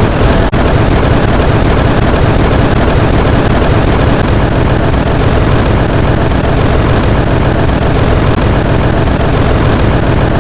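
Loud, steady harsh noise, heaviest in the low end, with a brief dropout about half a second in.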